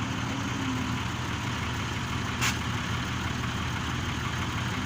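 Heavy construction machine's diesel engine running steadily at an even, low speed, with one sharp click about halfway through.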